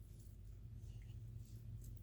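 Faint, soft scratching of cooked chicken breast being pulled apart and shredded in a bowl, over a low steady hum.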